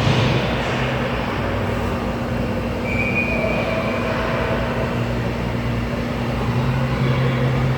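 Ice hockey arena ambience during play: a steady low hum with a continuous rumbling noise, a little louder at the very start.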